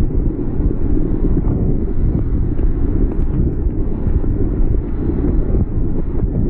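Strong wind buffeting the microphone: a loud, rough low rumble with no clear tone.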